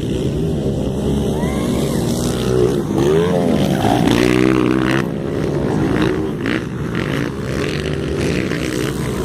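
Several motocross bikes' engines running and revving as they race past, their pitch rising and falling, loudest about three to five seconds in.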